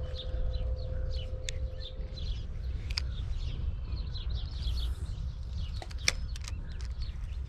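Small birds chirping and chattering over and over, over a low steady rumble, with a few sharp clicks, the loudest about six seconds in.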